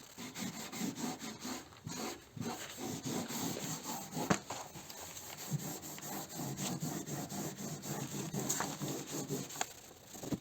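Hand scuff-sanding of an epoxy-primed car body panel with a red abrasive pad: a run of irregular back-and-forth rubbing strokes.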